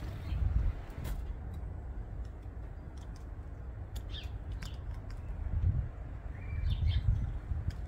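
Scattered short bird chirps and calls over an uneven low rumble that swells a few times, with one sharp click about a second in.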